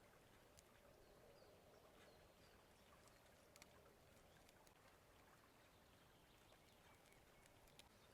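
Near silence: a faint outdoor background hiss with a few soft clicks.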